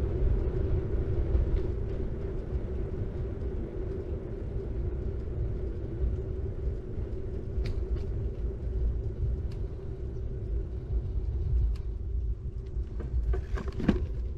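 A 21-gear city bike riding along a road: steady rumble of tyres rolling, with a few light clicks and a short cluster of knocks near the end.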